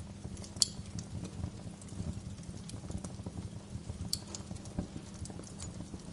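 Wood fire crackling in a fireplace: irregular small pops and snaps over a low steady rumble, with two sharper pops about half a second in and about four seconds in.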